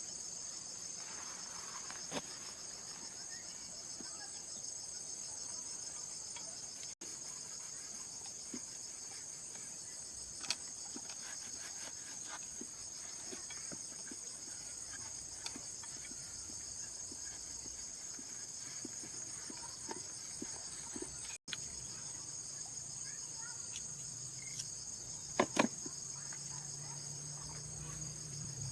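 Steady, high-pitched chorus of insects (crickets or cicadas), with scattered light clicks and knocks and a sharper clatter about 25 seconds in.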